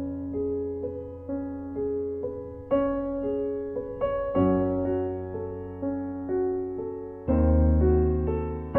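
Slow, soft piano music: single notes struck about once a second over held low bass notes, with a louder new chord about seven seconds in.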